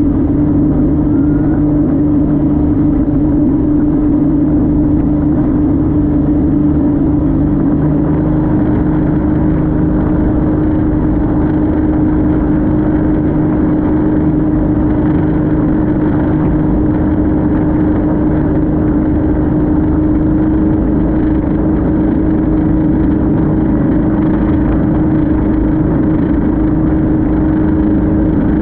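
Speedboat engine running at a steady speed, a constant loud drone that holds one pitch, with a rushing noise underneath.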